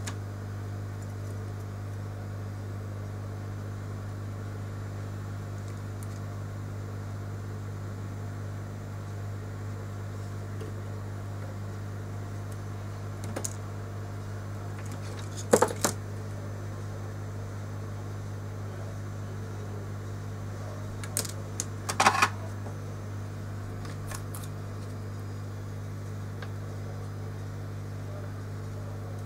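Steady low electrical hum with a few sharp small metallic clicks and clinks: one about halfway through, a quick cluster just after it, and another cluster some six seconds later, like small metal tools set down or tapped on a repair bench.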